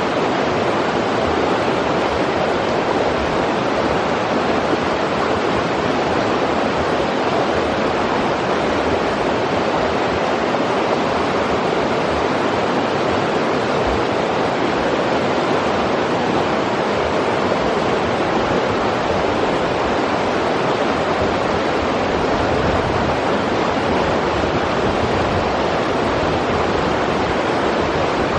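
River water rushing steadily, an even roar of flowing water with no breaks.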